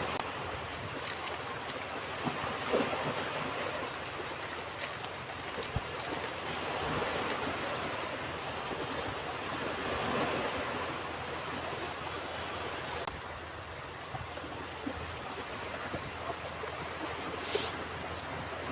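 Ocean waves washing onto a beach: a steady rush of surf that swells a little about halfway through, with a brief high hiss near the end.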